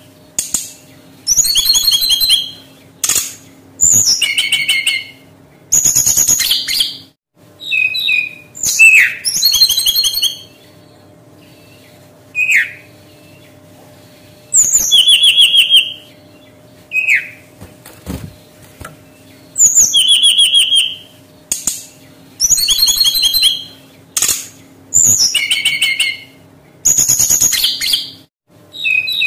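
Brown-chested jungle flycatcher singing: fast, warbled phrases about a second long, repeated every few seconds, with a few single down-slurred whistles between them.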